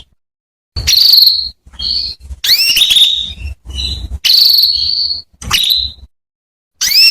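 Female canary calling: a run of high rising chirps and buzzy trills, each under a second long, with short pauses between, and one more chirp near the end.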